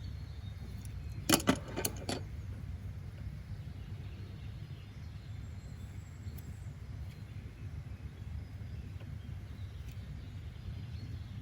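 A steady low background rumble of ambient noise, with a quick cluster of four sharp clicks or knocks a little over a second in.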